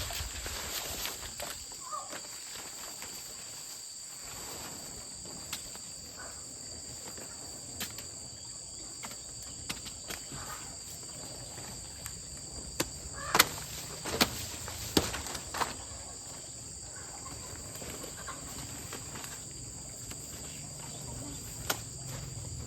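Steady high-pitched insect drone, with a few sharp knocks clustered around the middle.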